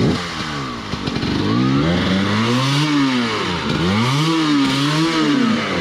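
Dirt bike engine revving hard, its pitch rising and falling several times as the throttle is worked, while the bike is being got out of deep mud.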